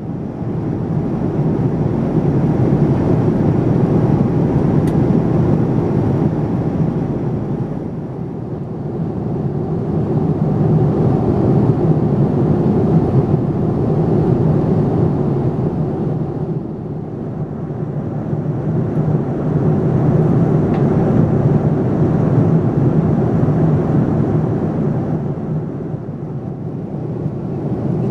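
Boeing 787-9 cabin noise heard from a window seat: the steady, deep rush of the Rolls-Royce Trent 1000 jet engines and airflow, swelling and easing in level a few times.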